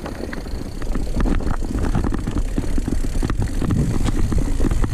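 Mountain bike rolling over a rough forest trail: a steady low rumble of tyres and wind, with many quick rattles and knocks from the bike. It gets louder about a second in.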